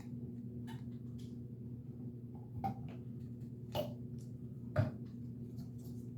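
A few soft clicks and knocks from a marinade injector being worked into a raw turkey, the three clearest in the second half, over a steady low hum.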